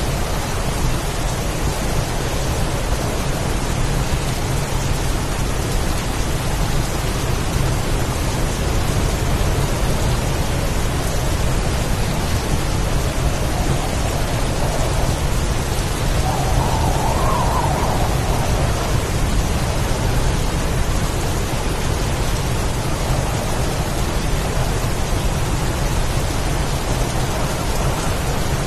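Heavy storm rain pouring steadily, with a constant low rumble beneath it and a brief swell a little past halfway.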